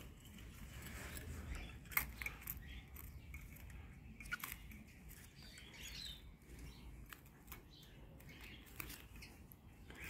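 Faint bird chirps among scattered small clicks, with one sharper tick about two seconds in.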